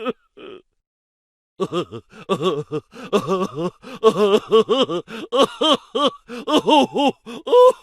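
A voice making a rapid run of short syllables, each rising and falling in pitch, in a comic, laugh-like way. It starts about one and a half seconds in, after a brief sound and a pause.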